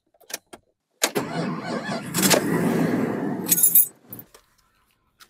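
Keys jangling on the ring as the key goes into the ignition, then the 318 Chrysler V8 (5.2 L) cranks and fires on a warm start, running for about three seconds before dropping to a very quiet idle.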